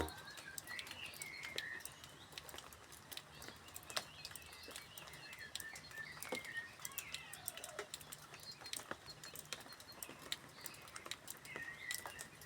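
Faint birdsong: short chirps and twitters, with scattered light clicks throughout.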